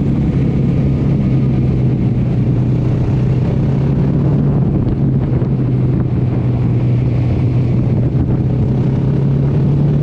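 Honda XR650L's single-cylinder four-stroke engine running at a steady cruising speed on the road, its pitch holding level.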